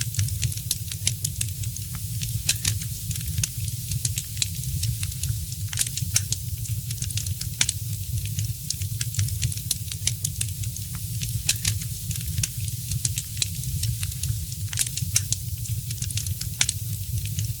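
Fireplace fire crackling, with frequent irregular sharp pops over a steady hiss and a low rumble.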